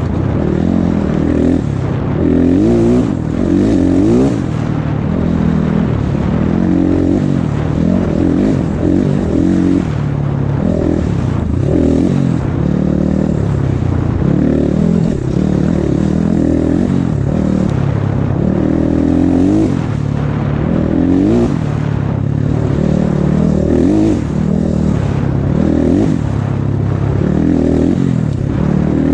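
Off-road motorcycle engine running under way, rising and falling in pitch with the throttle every few seconds.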